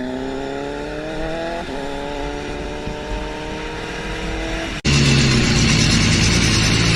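Motorcycle engine accelerating, its pitch rising steadily with one gear change about a second and a half in. Near the end it cuts suddenly to a louder, rougher rush of noise with a low engine note underneath.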